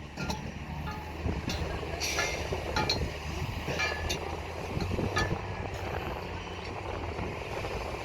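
Heavy construction machine's engine running steadily at a low hum, with several sharp metallic clinks and clanks.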